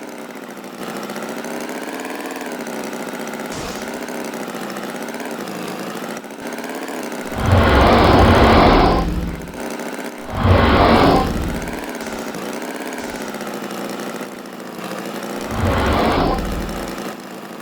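An engine running steadily with a slightly wavering pitch, with three louder, rougher bursts like revving: the first from about seven seconds in, the next at about ten seconds, the last near the end.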